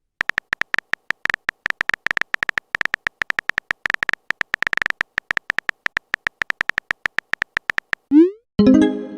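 Synthetic typing beeps for a text chat: a fast, uneven run of short high beeps, about ten a second, as a message is typed out. They stop near the end, followed by a rising swoop and a chiming message-notification sound.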